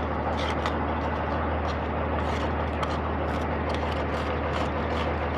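Kenworth C500 bed truck's diesel engine idling steadily, a constant low hum under an even mechanical rumble, with a few faint light clicks.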